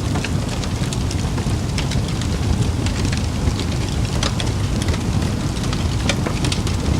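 Campfire burning with a steady low rush and frequent sharp crackles and pops from the wood.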